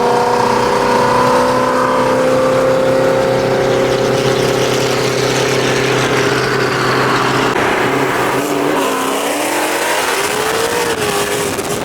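Car engine running with a steady droning note that drifts slowly in pitch, with a brief rise and fall in pitch near the end.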